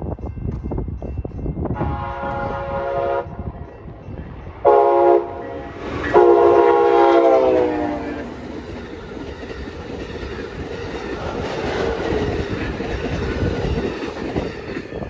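Amtrak Coast Starlight led by a Siemens Charger locomotive sounding its multi-note horn three times: a long blast, a short one, then a longer one that drops in pitch as the locomotive passes. After that comes the steady rumble and clatter of the bi-level Superliner cars rolling by.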